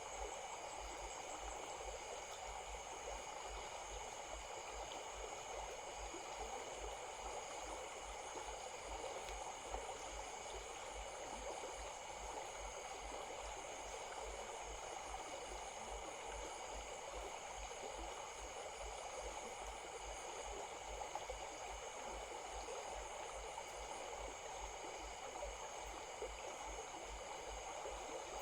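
Stream water running steadily. Above it there are steady high-pitched tones and a faint short note repeating about once a second.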